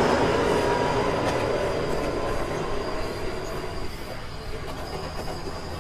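Subway train running on the rails, heard from inside the car, with a thin, steady, high wheel squeal; the running rumble gradually dies down as the train eases off.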